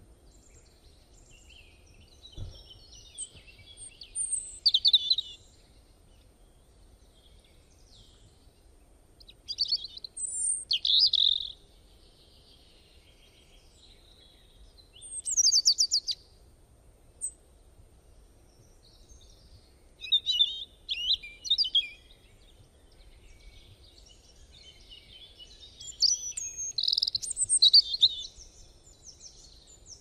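A bird singing short phrases of rapid high chirps and quick whistled glides, five phrases several seconds apart, over faint low background noise.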